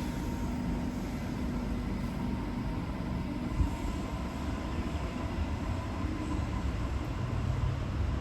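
Electric suburban passenger train running at a station platform: a steady low rumble with faint steady hums, and a single knock about three and a half seconds in.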